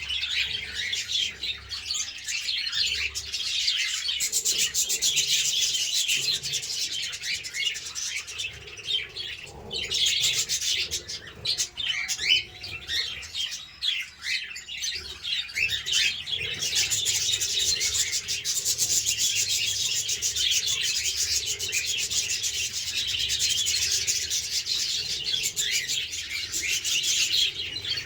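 Caged budgerigars and cockatiels chattering and chirping nonstop, a dense mass of high chirps that thins out for several seconds midway and then swells again.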